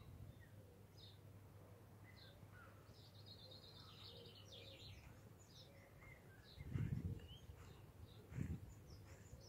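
Faint birdsong: scattered short chirps and a brief trill over a steady low hum. Two soft low thumps come near the end, about a second and a half apart.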